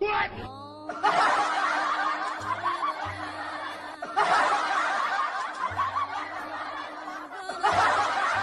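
A group of people laughing in long, overlapping stretches over background music.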